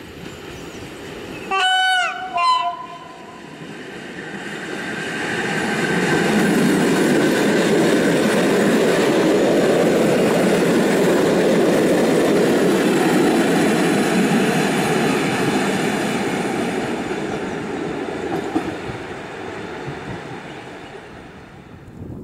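Horn of an EN57 electric multiple unit sounds two short notes, the second higher, about two seconds in. The train then approaches and runs past, its wheels on the rails growing loud for about ten seconds and then fading away.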